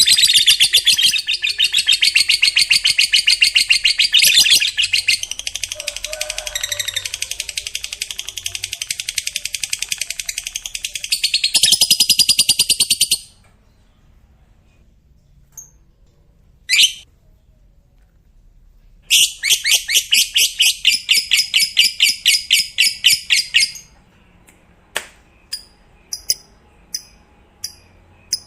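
Lovebird's long 'ngekek' chatter: a fast, continuous string of shrill notes lasting about thirteen seconds. After a pause comes one short call, then a second chattering burst of about five seconds, then scattered single chirps.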